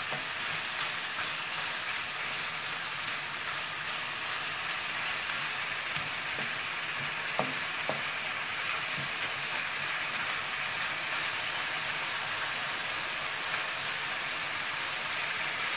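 Chicken pieces and sliced carrots sizzling steadily in a nonstick frying pan, stirred and pushed apart with a wooden spatula. Two light knocks about halfway through.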